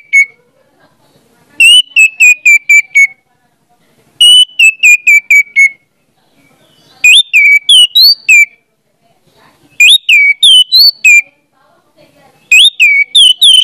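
Loud, clear whistled phrases of five to seven quick notes, repeating about every two and a half seconds. The first three phrases step slightly downward, and the later ones are made of notes that sweep upward.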